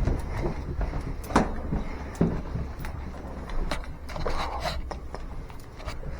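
Irregular footsteps and scattered light knocks over a steady low rumble.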